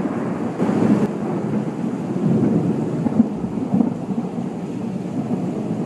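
Loud, continuous low rumbling with a fainter hiss above it, presented as one of the mysterious 'sounds in the sky'.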